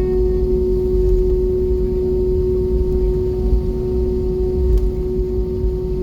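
Airbus A320 cabin noise after landing: a steady hum with one strong droning tone over a continuous low rumble.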